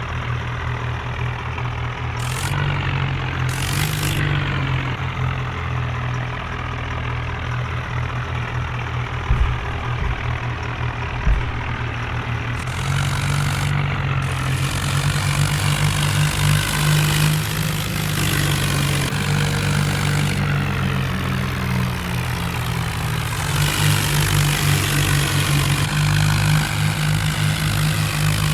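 Tractor engine running steadily, its note rising and falling several times as it is worked. Two sharp knocks come near the middle.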